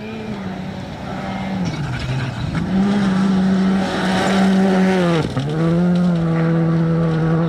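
Rally car engine running hard at high revs on a gravel stage, growing louder over the first few seconds as the car approaches. Its note drops briefly twice, about two and five seconds in, as the driver lifts or changes gear, then climbs back.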